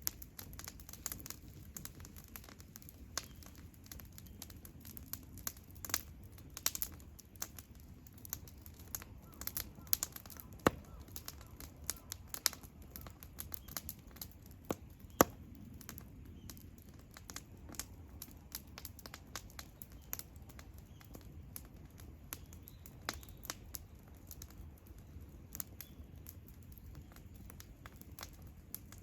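Wood campfire crackling: irregular sharp pops and snaps over a low, steady rumble of burning, with a couple of louder snaps about ten and fifteen seconds in.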